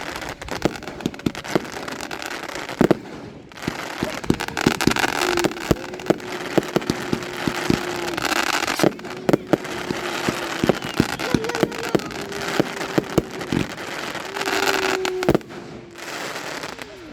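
Fireworks going off: a dense run of sharp bangs and crackling pops, with a few louder reports near the start.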